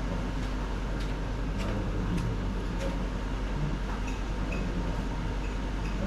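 A steady mechanical hum, like a fan or appliance running, with a few faint clicks spaced about every half second near the start and light brief ticks later on.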